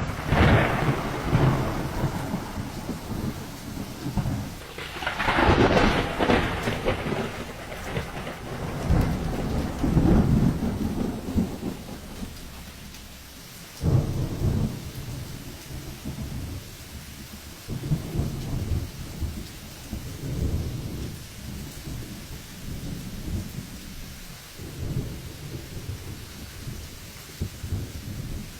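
Thunderstorm: rain falling steadily under repeated rolls of thunder. The loudest rumbles come in the first half, one breaking suddenly about halfway through, with weaker rolls after.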